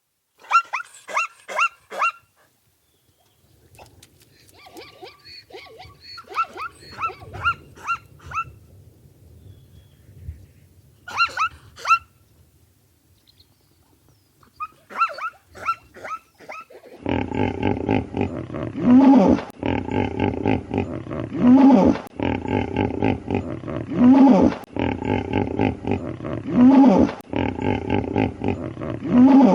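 Animal calls: clusters of short, high-pitched calls in quick runs, then from about halfway a continuous rough, loud calling with a stronger call repeating about every two and a half seconds.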